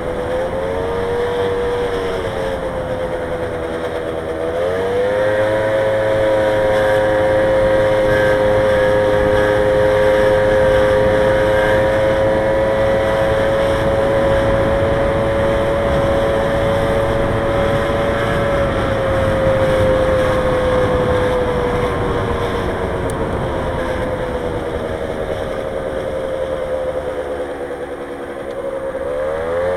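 Motorbike engine running under way, its pitch climbing as it accelerates about four seconds in, holding steady, easing off slowly, then climbing sharply again near the end. A steady rush of wind and road noise runs underneath.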